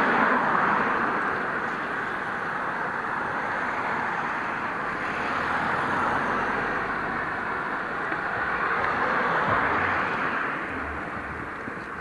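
Rushing road noise heard from a moving bicycle, swelling and fading about three times, like vehicles going by.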